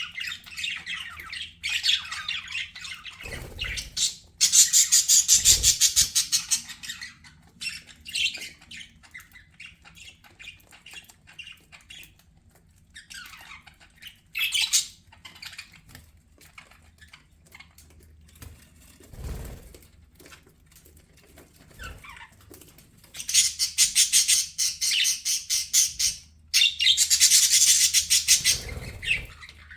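Budgerigars chattering and squawking in bursts of rapid warbling, loudest about four to seven seconds in and again over the last six seconds, with quieter calls in between. A few brief low thumps are mixed in.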